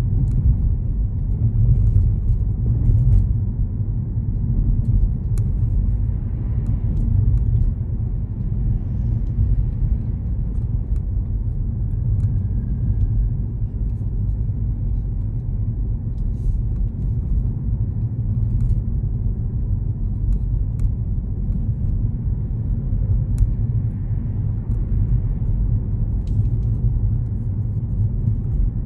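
Steady low rumble of a car being driven, engine and road noise, with a few faint clicks scattered through it.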